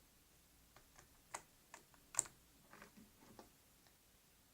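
Faint, irregular clicks and small ticks, about a dozen scattered through the middle seconds, from hands handling slime and its craft containers.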